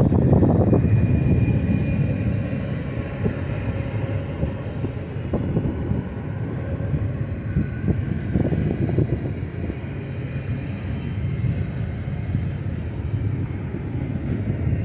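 Double-stack intermodal freight cars rolling past: a steady rumble of steel wheels on rail, with occasional sharp clacks, louder in the first second or two.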